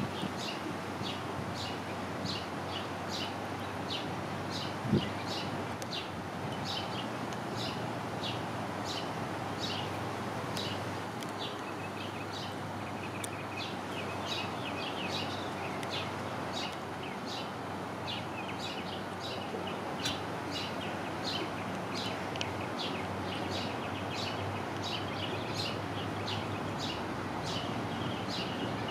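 A small bird chirping over and over, short high chirps about twice a second, over a steady background hiss. A single thump about five seconds in.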